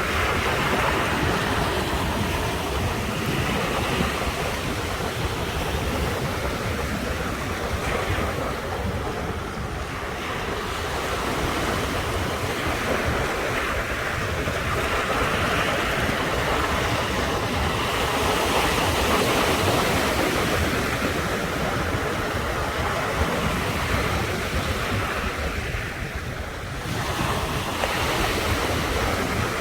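Ocean surf breaking and washing on the shore: a continuous rush that swells and eases, dipping briefly about ten seconds in and again a few seconds before the end.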